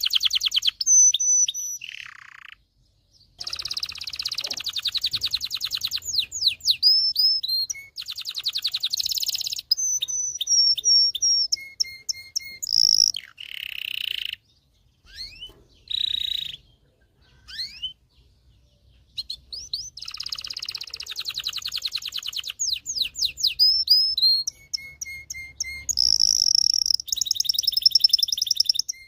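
Domestic canary singing long, fast, high-pitched trills of rapidly repeated notes mixed with quick whistled sweeps. The phrases last a few seconds each and are separated by short pauses.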